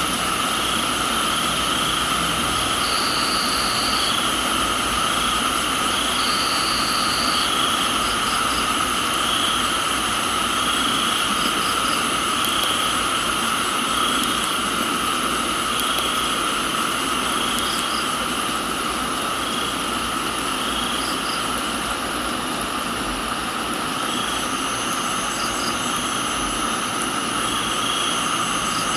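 Crickets and other insects in a steady chorus of trills at several pitches, one of them pulsing about once a second, with a few short higher chirps, over an even hiss of rain.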